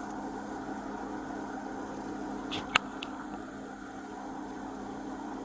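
Steady background hum, with a sharp click and two fainter ones about two and a half to three seconds in.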